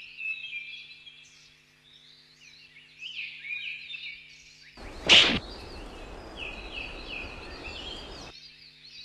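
Small birds chirping and twittering, with many short, quick calls. About five seconds in comes a single sudden, sharp, loud sound, followed by a low hiss for about three seconds.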